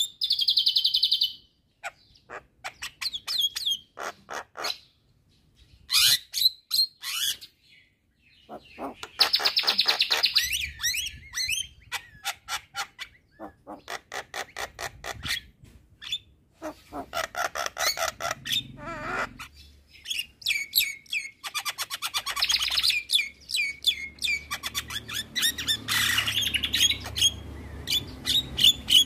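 Javan myna singing a long, varied song: rapid runs of clicking chatter broken by harsh, buzzy notes about a second long.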